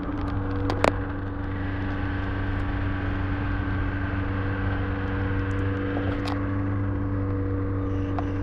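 Off-road 4x4's engine running at a steady speed as it drives along a muddy rutted track, a constant low drone, with a few short sharp clicks, the loudest about a second in.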